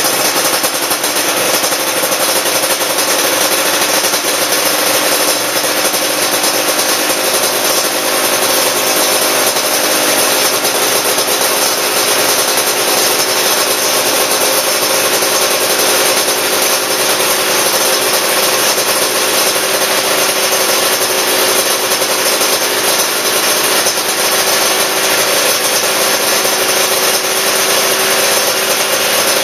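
Yamaha RZ350's liquid-cooled two-stroke parallel twin, freshly overhauled, idling steadily with a rasping, even note.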